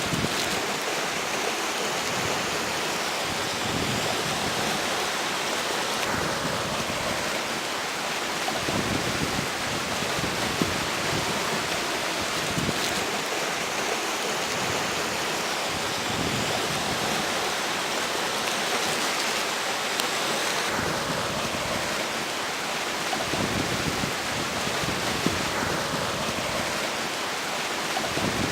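A river rushing steadily, with strong wind gusting over it; low rumbles of wind buffeting the microphone come and go.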